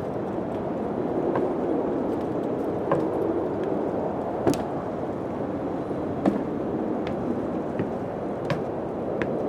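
Steady wind blowing, with sharp knocks at irregular moments, about one every second or so, the loudest about halfway through.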